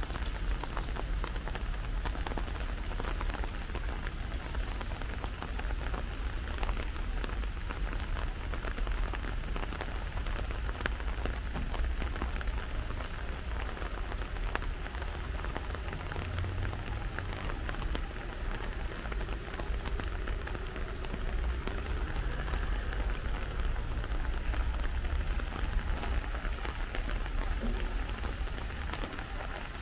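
Steady rain falling, with many small drops ticking close by over a continuous hiss and a low rumble.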